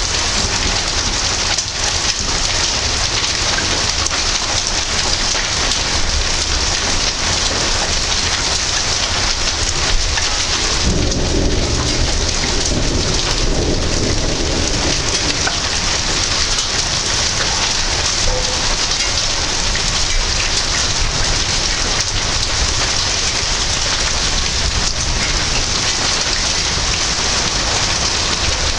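Steady rain pouring down in a thunderstorm. A roll of thunder rumbles low for a few seconds starting about eleven seconds in.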